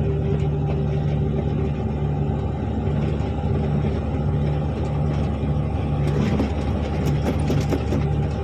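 Articulated dump truck's diesel engine running steadily with a low drone and a slow pulsing throb. Short rattles and knocks come in a little past the middle.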